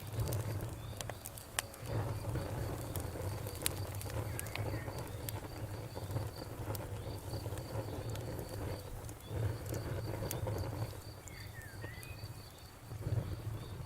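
Campfire crackling: irregular sharp pops and snaps of burning wood over a steady low rumble of the fire. A steady, evenly repeating insect chirping runs behind it.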